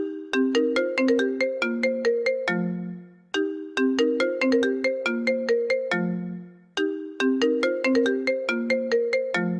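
iPhone ringtone playing: a quick melody of short, bright notes that ends on a lower held note and loops about every three and a half seconds.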